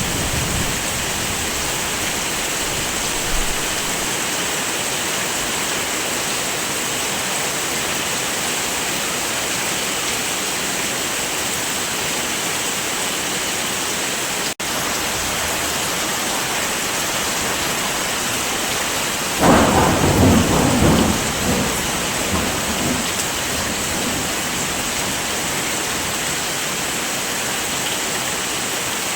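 Steady heavy rain, with a roll of thunder that rumbles for two or three seconds about two-thirds of the way through. The rain cuts out for an instant near the middle.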